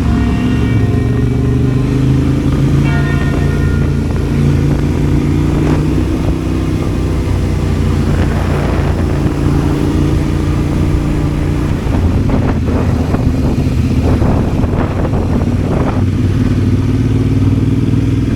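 Motorcycle engine running as the bike rides along, a steady drone that shifts in pitch a few times.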